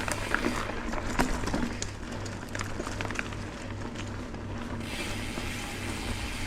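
Mountain bike rolling along a dirt trail: tyre noise over the ground with irregular clicks and rattles from the bike, and a ratcheting tick like the rear hub's freewheel while coasting.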